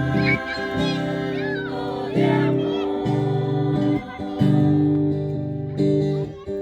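Acoustic guitar strumming chords, a new chord struck every second or two, with voices singing along.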